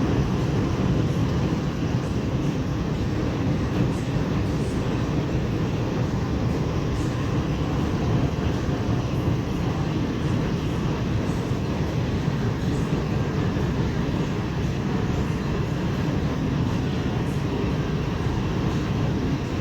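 Heavy hail with large hailstones falling, a dense, steady drumming that never lets up.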